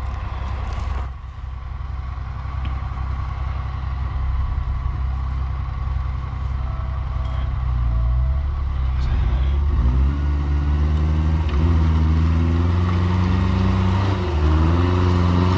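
Off-road 4x4's engine running low and steady, then revving up and down repeatedly from about ten seconds in, getting louder as it works the vehicle across a steep slope.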